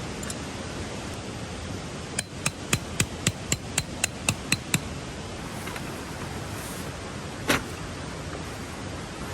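A quick run of about a dozen ringing hammer blows on metal, about four a second, followed a few seconds later by one more single strike. A steady rush of stream water runs underneath.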